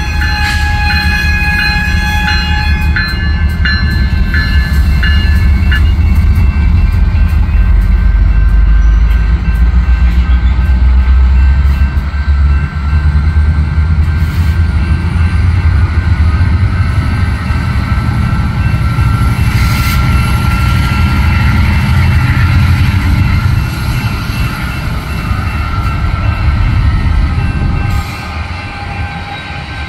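Union Pacific freight train's diesel locomotives passing close by at a grade crossing. The air horn sounds for the first few seconds while the crossing bell dings steadily until about six seconds in. Under it a loud, deep engine rumble and the rolling rattle of the freight cars go on throughout.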